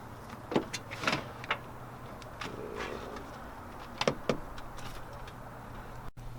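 Metal tools knocking and clinking against the car's engine mount hardware, about five sharp knocks with a brief scrape between them, over a steady low hum.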